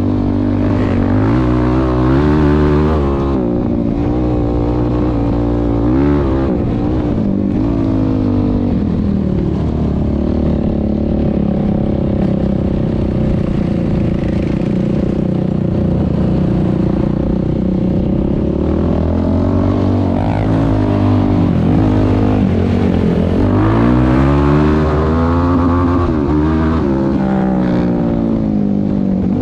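Yamaha YFZ450R quad's single-cylinder four-stroke engine through a Rossier R5 aftermarket exhaust, under way. The revs rise and fall several times, hold fairly steady through the middle, then drop and climb again near the end.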